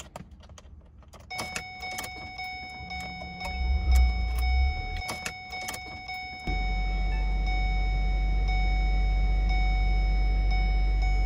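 Ford Escape Hybrid being started: several clicks over a steady high electronic whine, then about six and a half seconds in the gasoline engine comes on suddenly and runs at a steady idle.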